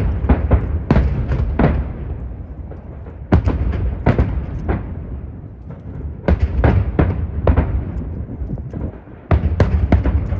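Aerial fireworks going off in quick clusters of sharp booms and cracks, with a deep rumble echoing between the volleys.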